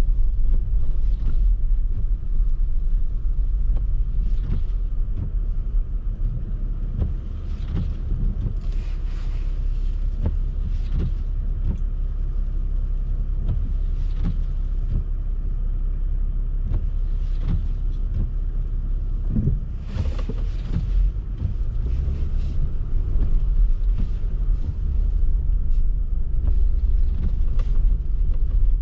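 Car driving on a snow-covered road: a steady low road and engine rumble, with brief swishing hisses every few seconds.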